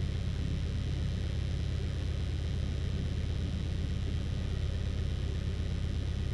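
Cessna 152's four-cylinder Lycoming engine idling steadily while the aircraft holds in position on the runway, a low even drone with a faint hiss over it.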